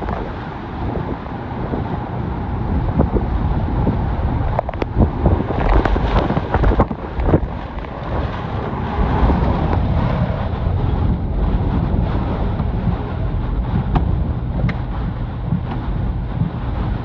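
Hurricane-force wind gusting hard and buffeting the microphone in a loud, rumbling rush. A few sharp knocks come through about five to seven seconds in.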